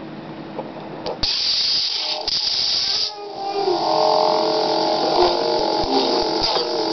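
A repaired sound board playing a sound effect through its speaker. A click about a second in is followed by a loud hiss lasting about two seconds. Then comes a sound of several held, wavering tones.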